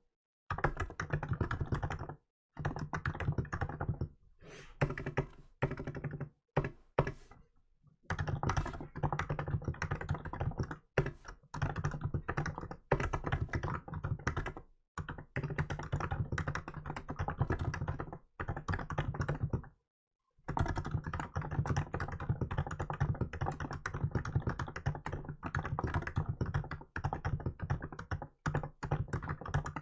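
Steady touch-typing on a Hansung GK868B electrostatic capacitive keyboard with milk-white keycaps: rapid runs of soft, deep key strokes broken by brief pauses, the longest about two-thirds of the way through.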